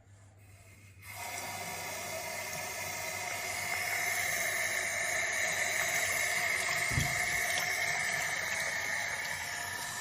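Steady rushing hiss like water running from a tap, starting about a second in. A brief low thump about seven seconds in.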